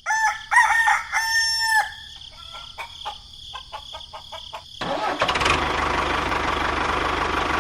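A rooster crowing in the first two seconds, followed by a few scattered clicks. About five seconds in, an engine starts and runs steadily.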